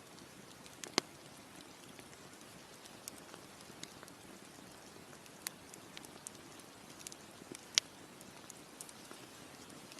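Campfire crackling: scattered small snaps over a steady soft hiss, with two louder pops, one about a second in and one near the end.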